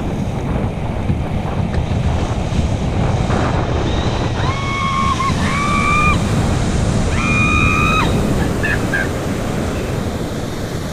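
Breaking surf and wind rushing over the microphone as a surf boat runs down the face of a wave. Midway there are three held high-pitched calls, each about a second long.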